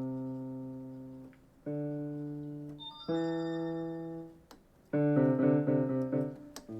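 Yamaha PSR-E363 portable keyboard sounding in a piano voice through its built-in speakers. A few held notes each fade away, then a quicker string of notes is played near the end.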